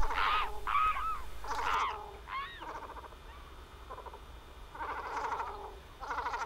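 Birds calling: a string of short, harsh calls with arching pitch in the first two and a half seconds, then two more calls near the end.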